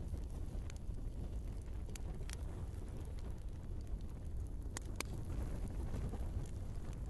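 Wood fire burning in a fireplace: a steady low rush of flames with scattered sharp crackles and pops, the clearest about two seconds in and a pair close together near five seconds.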